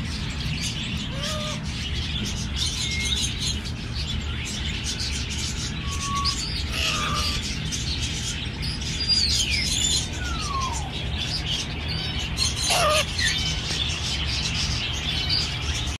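Scattered short bird chirps, a few of them falling whistles, over a steady low rumble.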